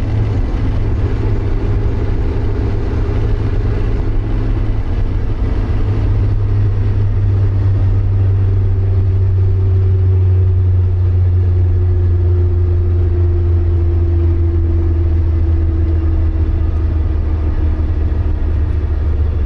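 Porsche 924's 2.0-litre four-cylinder engine running at speed, heard from inside the cabin as a steady low drone. Over the second half an engine tone slowly falls in pitch.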